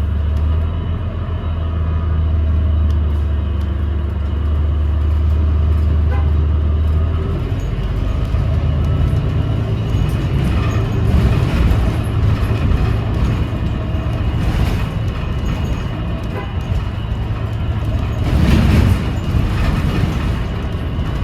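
On board a 2017 New Flyer XDE40 diesel-electric hybrid bus running along, heard from inside. A strong low drone lasts for about the first seven seconds, then gives way to more changeable running noise under faint steady whines. This is the odd sound the rider puts down to the transmission, or possibly a loose screw or panel. A brief hiss comes near the end.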